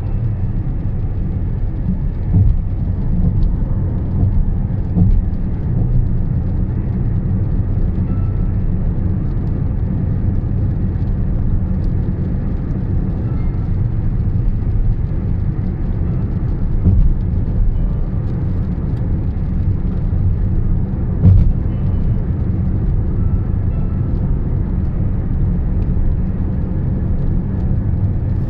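A car driving on a highway, with a steady low road and engine rumble and a few small knocks, one sharper than the rest about two-thirds of the way through.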